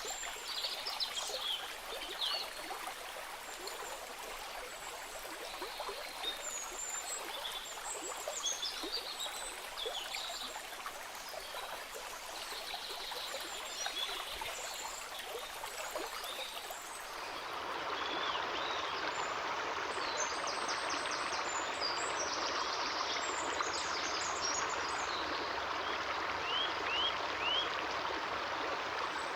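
A stream of flowing, trickling water with short high chirping calls over it. About two-thirds of the way in, the sound cuts to a louder, fuller rush of water, with the chirps continuing.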